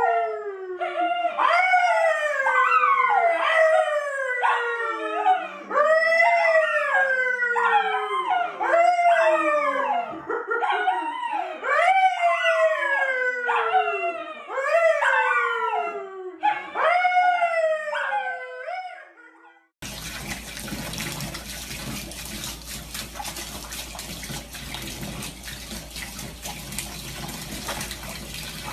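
A dog howling over and over, a string of falling, drawn-out howls each a second or so long. About twenty seconds in it stops, and steady running water takes over.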